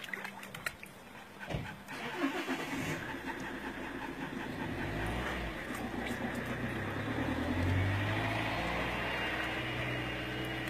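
A car engine running, growing louder over several seconds and then holding steady.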